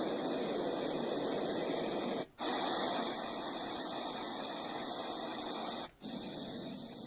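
FUNYKICH baby white-noise machine playing steady hissing noise, cutting out briefly and changing to a different noise about two seconds in and again near the end, as it steps from one sound to the next.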